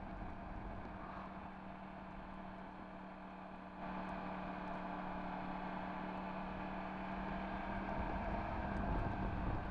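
Yamaha MT-10 SP's crossplane inline-four with an Akrapovič exhaust running at a steady engine speed under way. It gets louder suddenly about four seconds in and a little louder again near the end.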